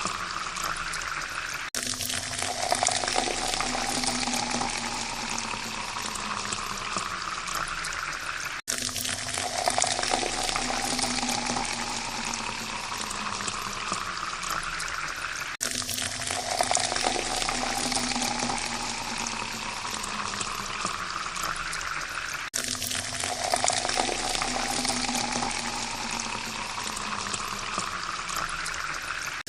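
Water pouring into a glass, with a tone that rises in pitch as the glass fills. The pour breaks off and starts over about every seven seconds, four times.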